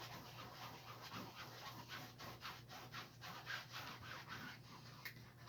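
Paintbrush loaded with acrylic paint scrubbing back and forth on canvas: a quick run of soft, scratchy swishes, about three or four a second.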